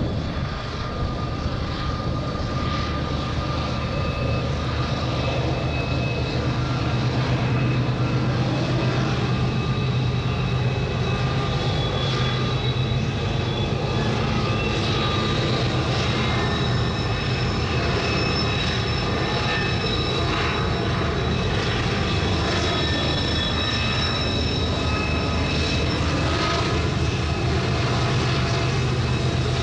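An engine running at a steady speed, with a strong low hum that does not change.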